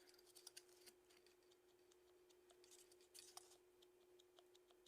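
Near silence: faint room tone with a steady low hum and scattered small clicks and ticks, a few slightly louder about three seconds in.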